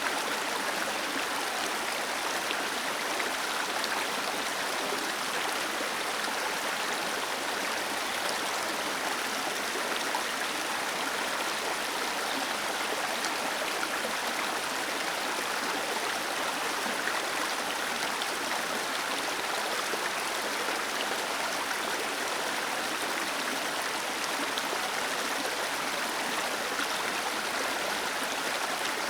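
Small waterfall cascading into a stream: a steady, even rush of falling water with no breaks or changes.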